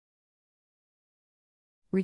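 Dead silence, with a synthesized narrator's voice starting just at the very end.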